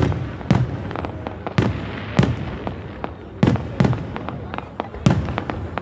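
Aerial fireworks bursting: about seven sharp bangs at irregular intervals, each with a short echoing tail, over continuous crackling.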